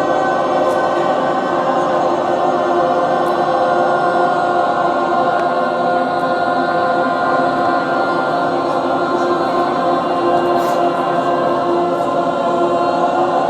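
Group of voices holding one long sustained tone together, a steady drone with many held overtones above it, as in overtone-singing voice work.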